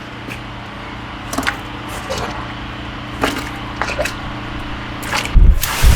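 A small measuring jug scraping and scooping packed, wet silt out of a block-paving drainage gully, a series of short scrapes and knocks over a steady machine hum. Near the end a louder, heavier rush of sound sets in.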